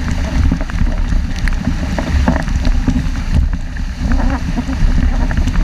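Strong wind buffeting the microphone in a steady low rumble, with water rushing and splashing irregularly along the hull of a 470 sailing dinghy under way in hard wind.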